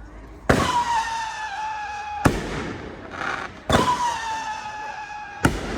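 Siren firework cake firing two shots. Each shot opens with a sudden pop and a shrill siren whistle that slides slightly down in pitch for under two seconds, then ends in a sharp bang.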